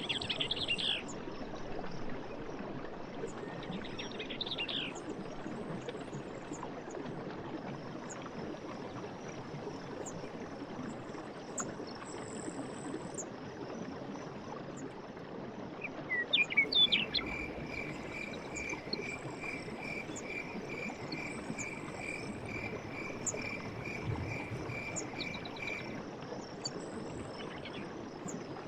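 Night forest ambience: a steady high insect chorus over a low even rushing haze, with short bird chirps near the start. About sixteen seconds in, a few quick sweeping chirps lead into a call of evenly spaced notes, about two a second, repeating for some nine seconds.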